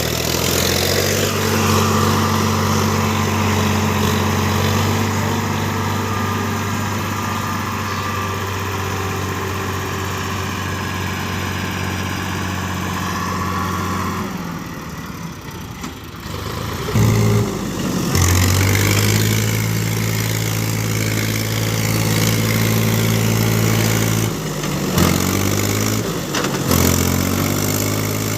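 Heavy diesel engine running steadily under load. About halfway through it drops away for a couple of seconds, then picks up sharply and runs on, dipping briefly twice near the end.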